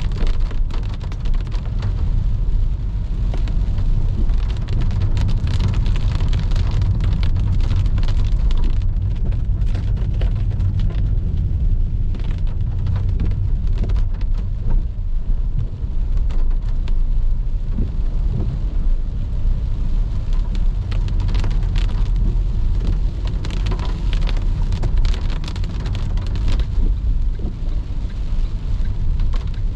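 Rain hitting a car as it drives: many small ticks of drops over a steady low rumble of the car and the wet road.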